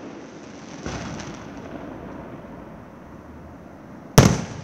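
Aerial firework shells bursting overhead: a softer report about a second in, then a loud, sharp bang near the end that dies away quickly.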